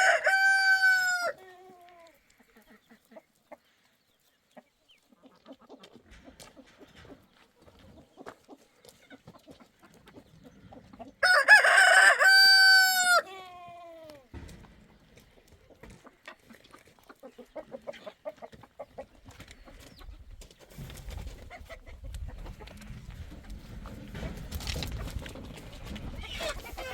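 Rooster crowing twice, each crow a loud held call that falls away at the end: the first is already under way and ends about a second in, the second comes about eleven seconds in. A low rumbling noise builds over the last several seconds.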